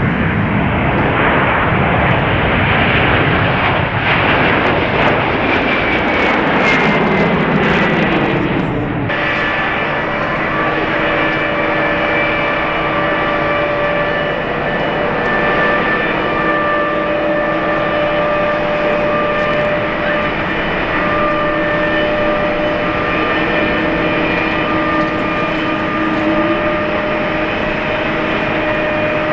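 Jet airliner engines: a loud roar with pitch falling over the first nine seconds or so. About nine seconds in it changes abruptly to a steady whine of several held tones, as from jet engines at low power.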